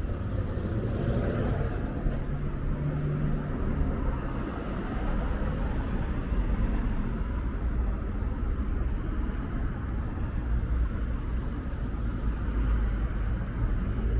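Steady rumble of road traffic on a city street, with a vehicle engine's tone held for a couple of seconds near the start.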